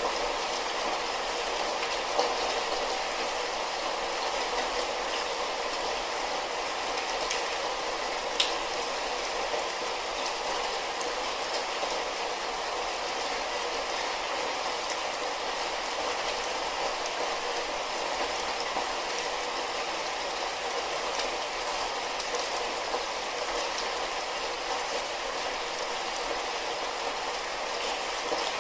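Light rain falling steadily: an even hiss of rain with scattered sharper drop clicks, the clearest about 8 seconds in.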